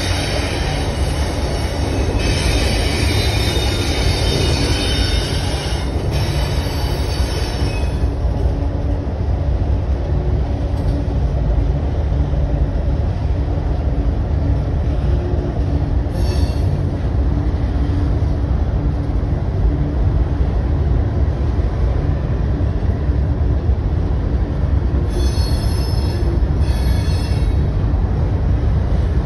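Union Pacific grain train, a locomotive and loaded covered hopper cars, rolling across a steel trestle with a steady rumble. High-pitched wheel squeal rides over it, strongest for the first eight seconds, with a short burst about halfway through and more near the end.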